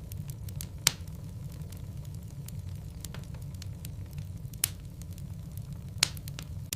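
Logs burning in a fireplace, crackling steadily with a low rumble of flame under many small clicks. Three louder sharp pops stand out: about a second in, past the middle, and near the end.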